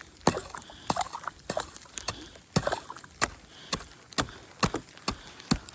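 Footsteps crunching through crusted snow and sleet, a sharp step about twice a second.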